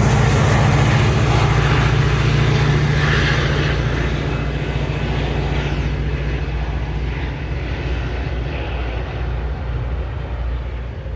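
Diesel train passing with a steady low engine drone and rushing rolling noise, both fading slowly as it moves away.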